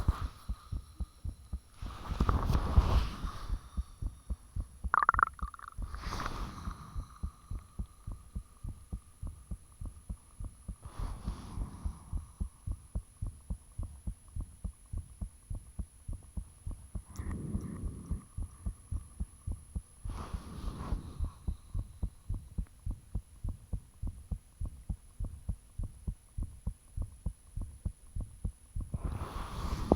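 A person's heartbeat recorded close up: a steady run of rhythmic low thumps. A few louder swells of noise break in every few seconds, and there is a brief high squeak about five seconds in.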